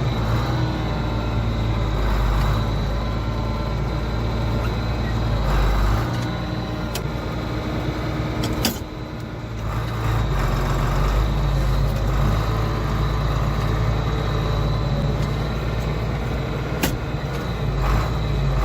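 A vehicle engine running steadily, heard from inside the cab, with a few sharp clicks and a short dip in the engine sound about nine seconds in.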